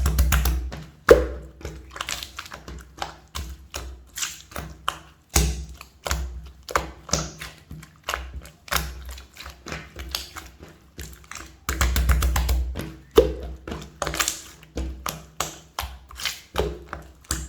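Clear slime being pressed and poked by hand: irregular sticky clicks and small pops, several a second, with a few heavier presses, the longest about twelve seconds in.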